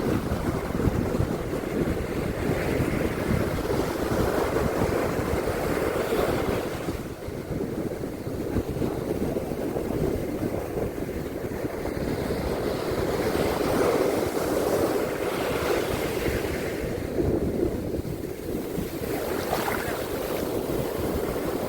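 Ocean surf washing onto a beach in rising and falling swells, with wind rumbling on the microphone.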